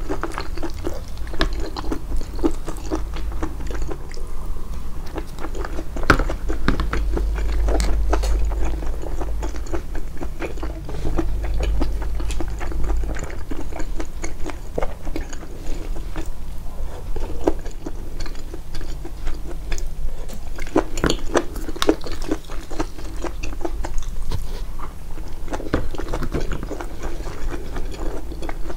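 Close-miked chewing and biting of a home-cooked meal of grilled mutton, vegetables and rice, amplified in the edit: a dense, irregular run of small mouth clicks. A low hum lies underneath for about the first half, then fades.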